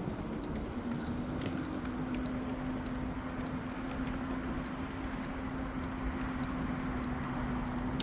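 Electric bike riding: a steady motor hum at one pitch, starting about a second in, over a low rumble of tyres and air.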